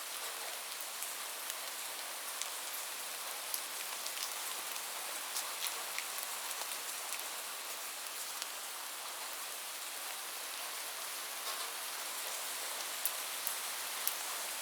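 Steady rain falling: an even hiss with scattered sharper ticks of single drops striking.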